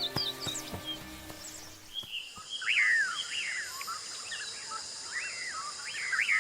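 Wild birds calling: a run of about six short calls that each fall in pitch, over a steady high buzz of insects. Background music fades out about two seconds in.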